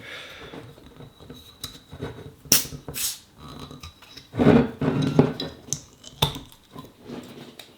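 Handling of glass bottles and tableware at a table: a few sharp clicks and clinks with a brief clattering stretch in the middle.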